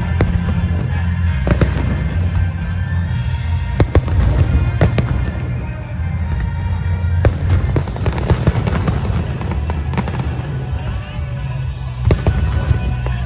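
Fireworks bursting overhead, with separate sharp bangs and a dense run of crackling about halfway through, over music playing with a heavy bass.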